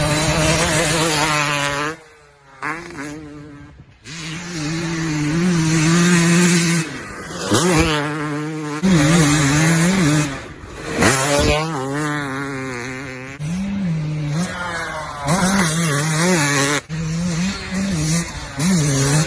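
Off-road motorcycle engines revving, the pitch rising and falling with the throttle, in a run of short clips that cut abruptly from one to the next.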